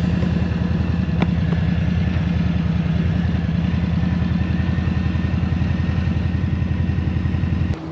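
Harley-Davidson V-twin motorcycle engine running at a steady speed, a low, even pulsing note that holds its pitch throughout and cuts off suddenly near the end.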